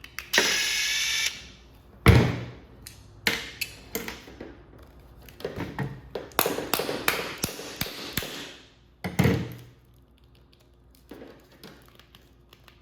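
A power driver runs for about a second near the start, then come clicks, knocks and clatter of hardware and tools being handled, with heavier thumps about two seconds in and about nine seconds in.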